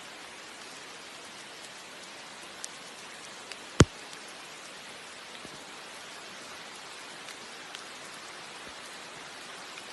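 Steady, even hiss with a few faint ticks, and one sharp click a little under four seconds in.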